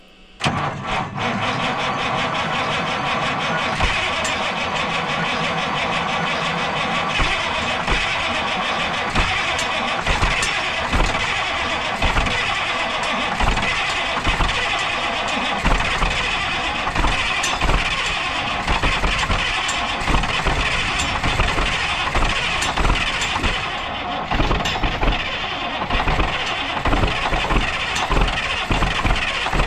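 Cold start of a Caterpillar 3406B diesel that has sat unrun for months: it is cranked over on the starter and turns over with uneven heavy thumps as it tries to fire, the noise coming in suddenly about half a second in and going on without a break.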